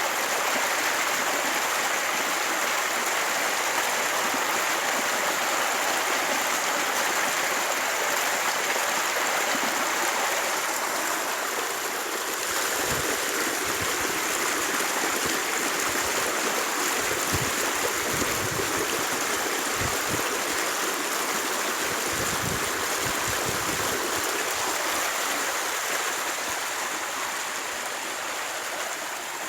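Steady rushing of running water, like a stream, with a few soft low thumps in the middle stretch.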